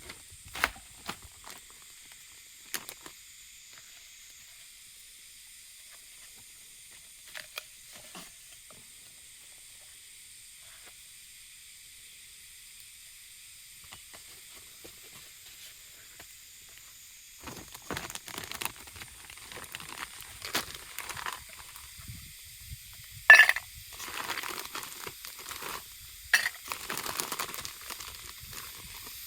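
Food sizzling steadily in a pan over a camp fire or stove. A few light clicks come early on, and from a little past halfway there is irregular clatter and knocking of cookware and utensils being handled.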